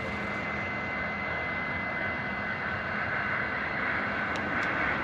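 Steady jet engine noise from an Airbus A320neo's CFM LEAP-1A turbofans: an even roar with several steady whining tones. Two faint clicks near the end.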